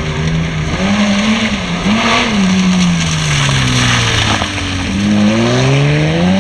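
BMW E36 coupe rally car's engine at full effort through a slalom: revs rise and dip, fall away for a long stretch around the middle, then climb steadily under acceleration near the end.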